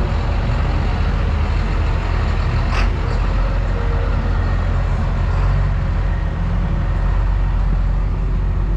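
A motor vehicle's engine running steadily with a deep, continuous rumble, and a short click about three seconds in.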